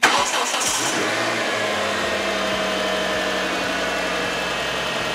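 Hyundai Tucson engine started: it catches almost at once after a brief burst from the starter, then settles into a steady idle.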